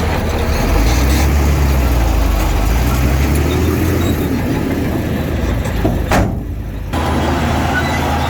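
Heavy diesel construction machinery running under load with a deep engine rumble that swells and eases. A short sharp sound comes about six seconds in, followed by a brief break in the noise.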